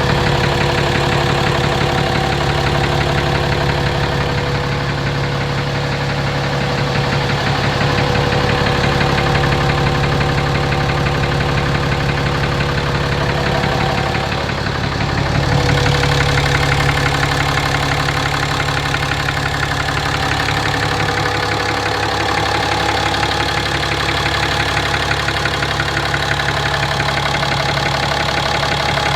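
2017 RAM 2500's 6.7 Cummins inline-six turbo diesel idling steadily with a deep knock, which the owner suspects is an engine fault; high iron in the oil analysis is the only clue to its source.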